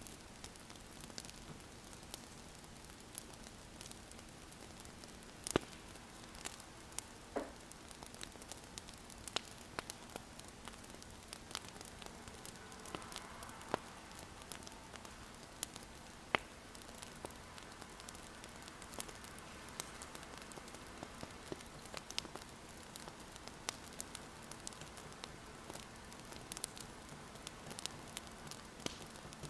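Wood fire crackling: steady soft hiss with frequent sharp, irregular pops and snaps. Now and then a pen scratches across paper.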